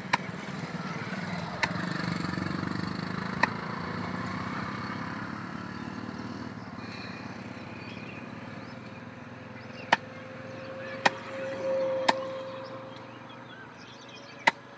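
A cleaver chopping chicken on a chopping block: about seven sharp, single chops at irregular spacing, over a low background rumble of passing vehicles.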